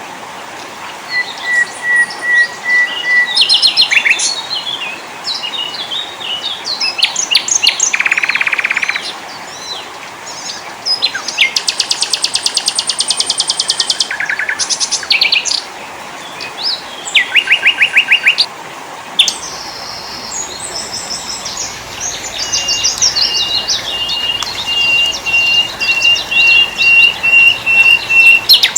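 Several species of small songbirds singing and chirping in a spliced mix: short whistles, rapid trills and chatter overlapping one another over a steady hiss. Near the end one bird repeats a single high note in a long, even series.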